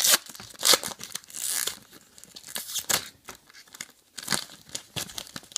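A trading-card pack wrapper being torn open and crinkled by hand, in a series of short, irregular rips and rustles.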